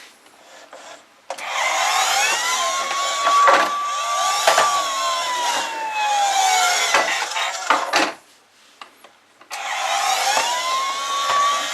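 Toy police car's electronic siren playing through a small speaker: a wail that rises, holds, then slides down, cutting off about eight seconds in and starting again a second and a half later.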